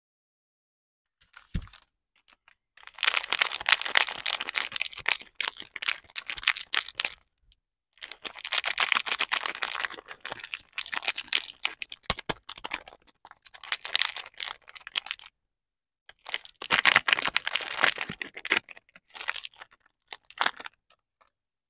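Wrapping on a bar of soap being unwrapped: crinkling and tearing packaging in three long bouts of dense crackling, with short pauses between. A low thump comes shortly before the first bout.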